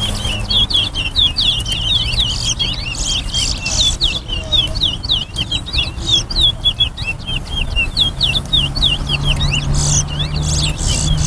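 Towa towa finches singing in a song contest: a fast, unbroken stream of high, quick chirps and whistled notes, over a low background hum.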